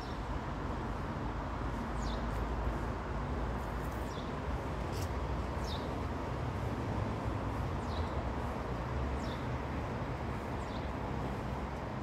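A bird gives short, high chirps that fall in pitch, one every second or so, over a steady low rumble.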